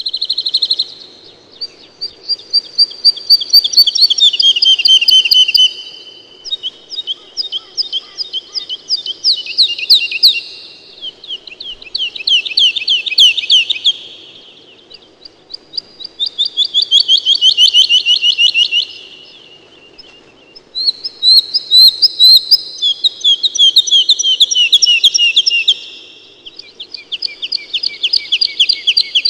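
Songbirds singing long, rapid trills, one after another with short pauses, several voices overlapping.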